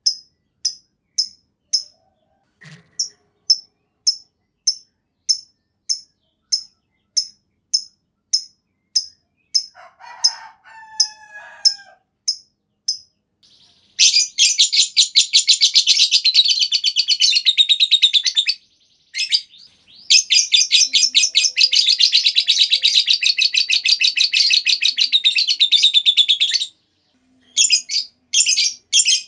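Lovebird calling: a run of sharp, high chirps at nearly two a second, then two long, rapid chattering trills of several seconds each (the lovebird's 'ngekek panjang'), then quick chirps again near the end.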